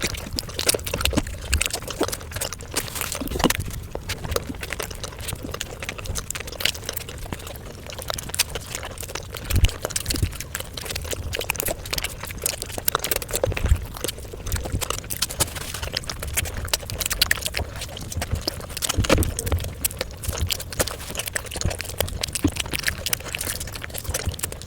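Close-miked eating sounds: wet chewing and mouth noises, with a steady run of sharp, crackly clicks.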